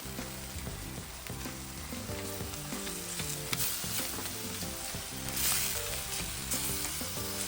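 Ground beef frying in a pan, a steady sizzle with a few louder scrapes and stirs, strongest about five and a half seconds in. Background music with held notes plays underneath.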